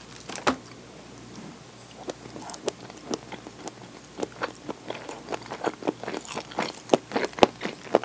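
Close-miked chewing of food: one sharp bite about half a second in, then steady crisp, wet chewing clicks that come faster and louder toward the end.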